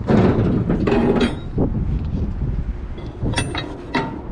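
Flatbed cargo straps being worked loose: webbing pulled and metal strap hardware clattering and clinking, a loud stretch at first, then sharp clinks about three seconds in, over a steady low rumble.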